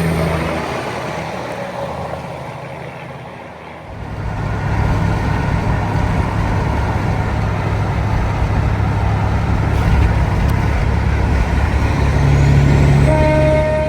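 A heavy vehicle passes close by with a deep rumble and road noise that come up suddenly about four seconds in and hold steady. Near the end a horn begins to sound, a chord of several steady tones.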